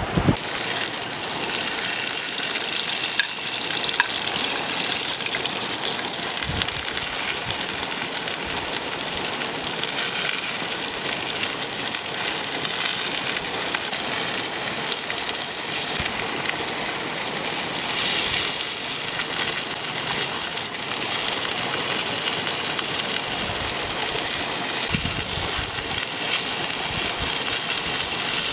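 Stream water rushing and gushing steadily.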